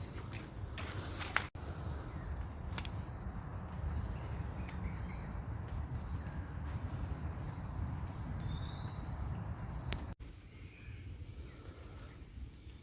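Steady high-pitched drone of insects in tropical forest over a low rumble, with a brief rising chirp a little past the middle.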